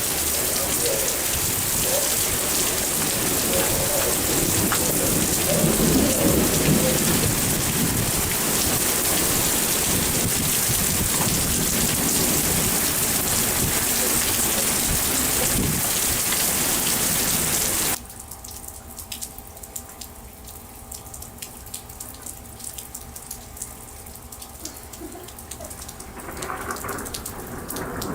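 Heavy thunderstorm downpour, a loud steady hiss of rain with thunder rumbling under it. About two-thirds of the way through it drops suddenly to much quieter scattered drops over a faint steady hum, and a low thunder rumble swells near the end.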